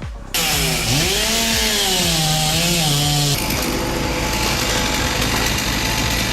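Chainsaw coming in suddenly and loud, its engine revving up and down for about three seconds, then holding a steady high-pitched run.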